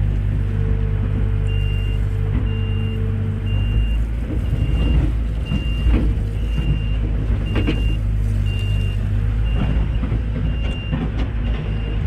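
Heavy diesel machinery running steadily, with a high reversing alarm beeping about every 0.6 seconds from a second or so in. Several knocks and clatters come in the middle.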